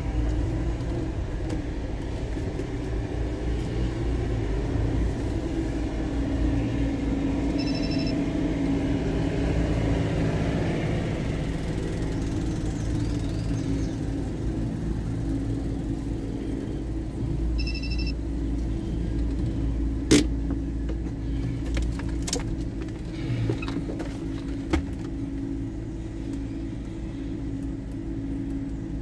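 Car engine running at low speed while the car is parked, a steady low hum whose pitch drifts gently up and down. Two short electronic beeps come about ten seconds apart, followed by a few sharp clicks, the loudest about two-thirds of the way through.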